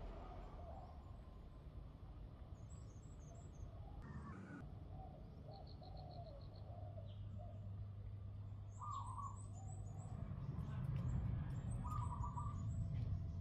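Birds chirping: scattered short calls, some low and some in quick runs of high notes, over a low hum that grows louder in the second half.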